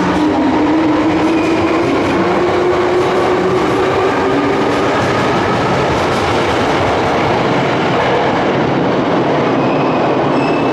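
Sakaisuji Line subway train pulling away through the underground station: the electric traction motors whine in two steady tones that rise slowly in pitch as it accelerates, over a loud rolling rumble. The sound cuts off suddenly near the end.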